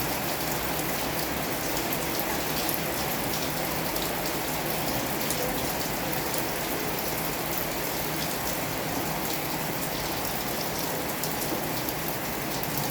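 Heavy rain falling steadily, with many sharp ticks of individual drops striking a surface.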